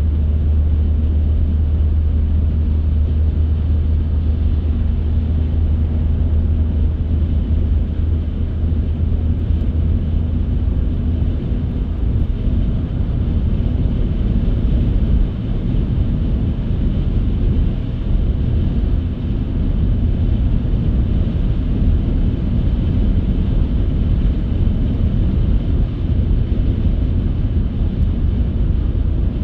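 A car driving along a road, its engine and tyre noise a continuous low rumble. A steady low drone gives way to a rougher rumble about eleven seconds in.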